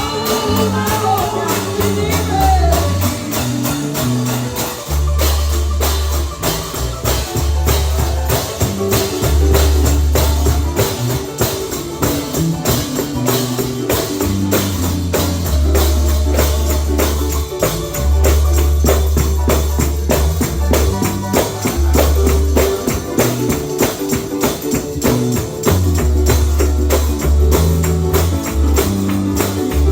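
Live gospel music, mostly instrumental: a tambourine keeps a fast, steady beat over a repeating bass line, with little or no singing.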